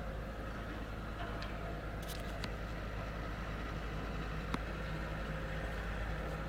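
Excavator's diesel engine running steadily, with a few short clicks and knocks about two, two and a half and four and a half seconds in.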